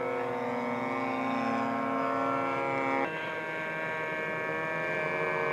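Radio-controlled model airplane engines running in flight, more than one steady pitch at once. Their pitch drops sharply about three seconds in, then climbs again near the end as the throttle comes back up.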